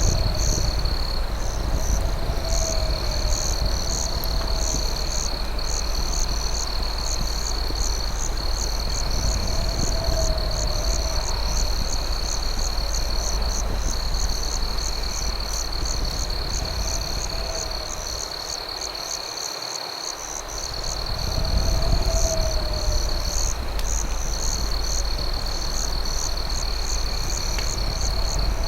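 Night chorus of crickets and other insects: a steady high trill with rapid chirping above it, and a frog giving a short rising-and-falling call every few seconds. A low rumble runs underneath and dips away briefly about two-thirds of the way through.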